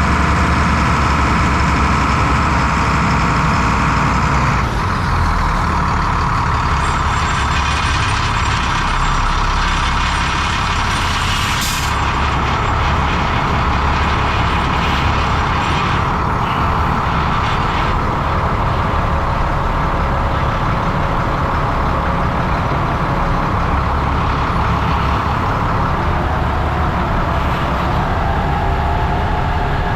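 1996 International 4900 truck's diesel engine running steadily, with a brief sharp hiss about twelve seconds in.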